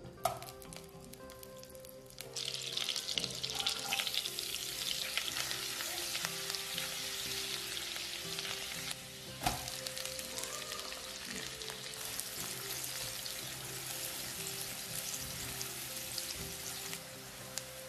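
Butter and chopped garlic and onion frying in hot oil in a nonstick wok, stirred with a spatula: a soft knock as the butter goes in, a light sizzle, then a much louder, dense sizzle from about two seconds in. One sharp knock about halfway through.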